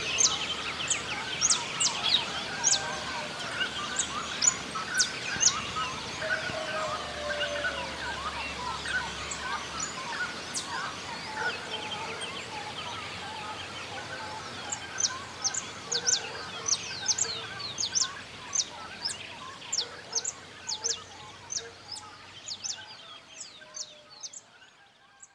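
Dawn chorus of many songbirds chirping and calling at once, with quick sharp high notes over a dense background of twitters; it fades out at the very end.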